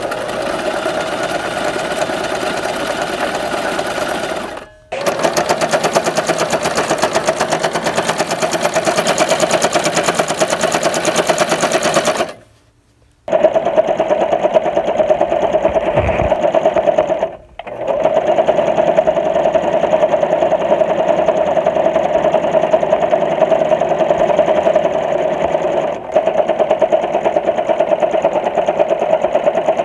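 Sewing machine running in long continuous stretches with a fast, even stitching flutter. It stops briefly about five seconds in, for about a second near the middle, and briefly once more a few seconds later.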